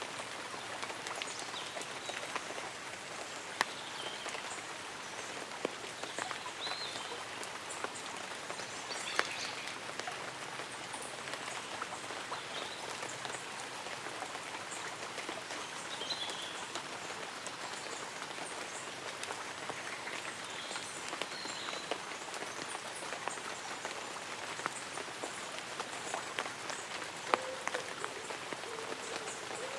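Light rain pattering steadily on leaves and an umbrella, with individual drops ticking sharply now and then. Faint short chirps of birds or insects come through over the rain.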